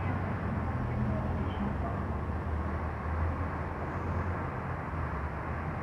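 Car engine running with a low, steady hum as the car rolls slowly forward.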